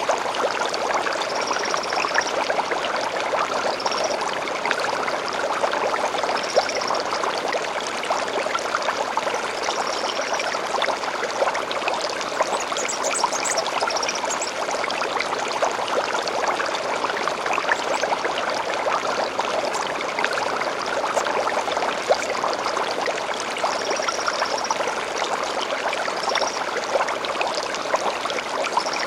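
Shallow stream babbling and trickling steadily, with short high bird chirps every few seconds and a brief, busier run of higher birdsong about halfway through.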